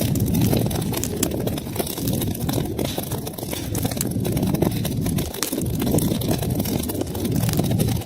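Wood fire burning in a fireplace: a steady low rush of flames with frequent small, sharp crackles and pops.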